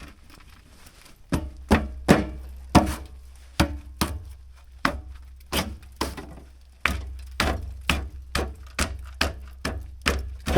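A run of sharp knocks, about two or three a second and uneven in spacing. Under them, a low steady hum starts about a second and a half in.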